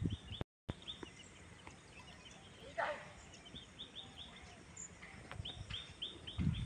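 Small birds chirping in runs of short, quick, repeated notes over faint outdoor background noise. There is a brief dropout about half a second in and a low thump near the end.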